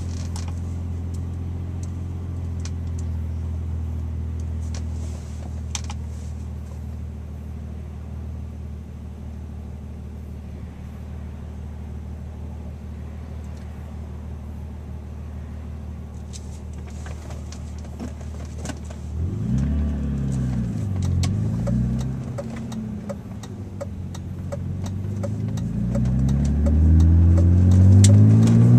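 BMW car engine idling steadily, heard from inside the cabin, then revved up and down twice about two-thirds of the way through, then accelerating with a rising pitch as the car pulls away, loudest near the end.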